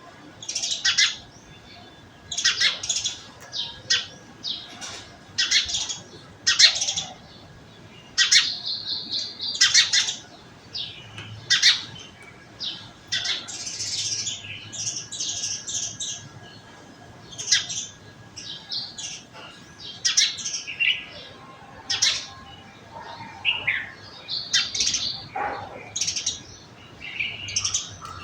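Small birds chirping and calling, many short high chirps and squawky notes following one another.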